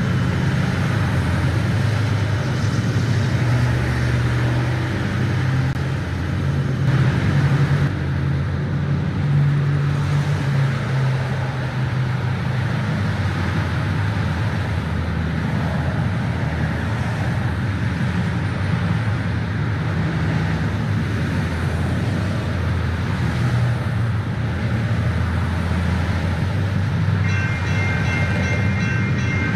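Train running steadily with a deep engine rumble; near the end a railway bell starts ringing in rapid, even strokes.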